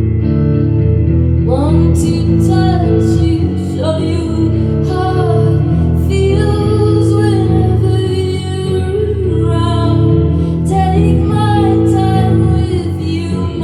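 A woman singing solo to her own guitar accompaniment. Sustained guitar chords ring throughout, and the voice comes in about one and a half seconds in with long, bending sung lines.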